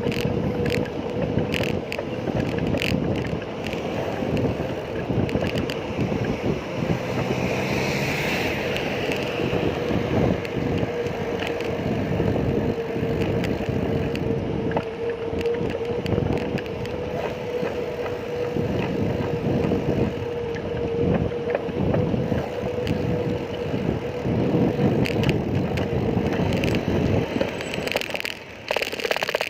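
Wind buffeting the microphone on a moving bicycle, a gusty rumble with a steady hum under it. The noise drops sharply near the end.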